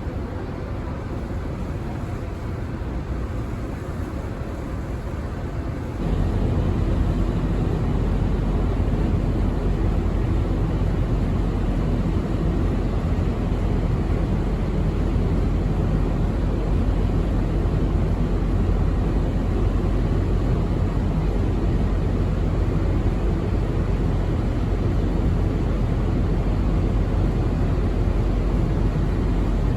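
Steady low rumble of a large car ferry's engines and hull noise heard on board, growing clearly louder and deeper about six seconds in.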